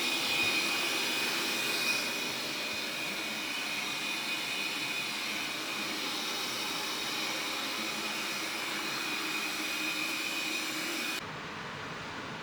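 Neabot Q11 robot vacuum running: a steady motor and fan whine with a high tone over a hiss. About eleven seconds in it drops to a quieter, duller sound.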